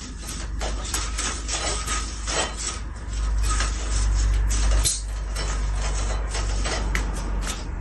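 Irregular clicks, knocks and clatter over a low rumble, the rumble heaviest around the middle.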